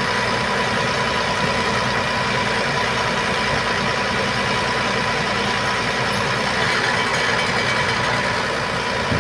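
Truck engine idling steadily, with a steady whine over it.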